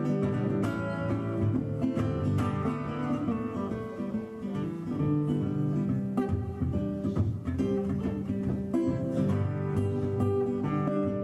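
Acoustic blues guitar playing an instrumental break, a steady run of plucked notes and strummed chords with no singing.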